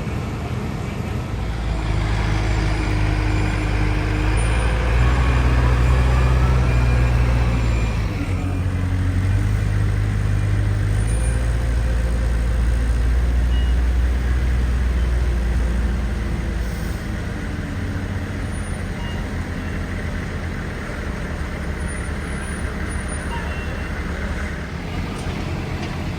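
Heavy diesel engine running under load. It revs up a couple of seconds in, holds high with a brief dip in the middle, then settles back to a lower run.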